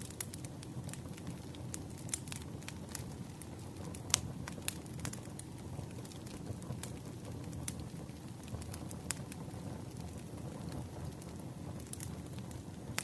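Campfire burning: a steady low rumble with irregular crackles and pops of the wood, the sharpest about four seconds in.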